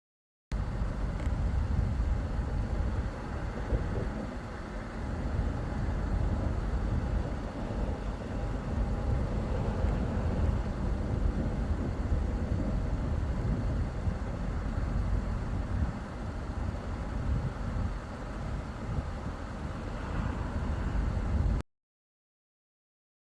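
Steady road and engine noise inside a moving vehicle, a low rumble without clear tones, starting abruptly about half a second in and cutting off suddenly near the end.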